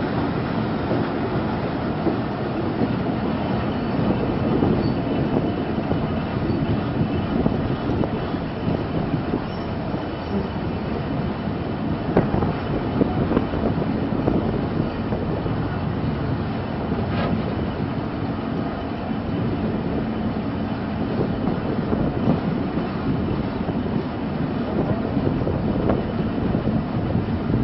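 Moving passenger train heard from an open coach doorway: a steady rumble of steel wheels on the rails, with a rattling clatter and a few sharp clicks from the track.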